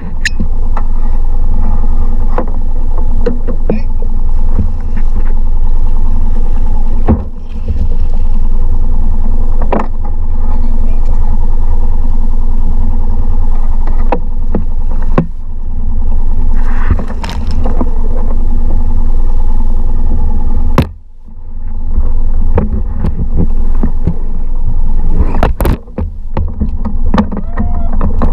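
Mercury 3.5 hp single-cylinder four-stroke outboard running steadily, pushing a kayak. The motor sound dips briefly about three-quarters of the way through, then comes back, with scattered light knocks over it.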